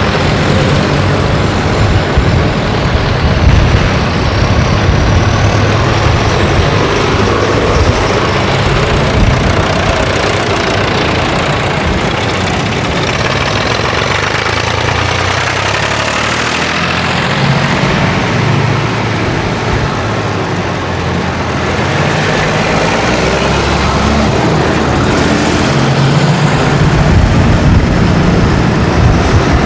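Farm tractors' diesel engines running loudly, the engine note changing as one tractor after another goes by.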